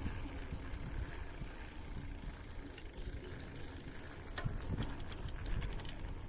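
Low, steady rumbling noise with a few faint, scattered clicks and ticks, typical of an outdoor camera on the move on a mountain bike ride.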